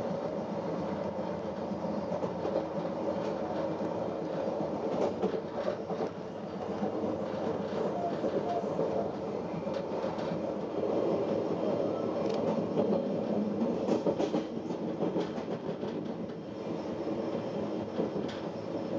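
MBC regional train running along the line, heard from inside the passenger carriage: a steady rumble of wheels on rails with occasional sharp clicks.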